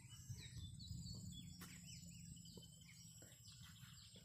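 Faint outdoor ambience: birds chirping in many short, falling notes, over a low rumble.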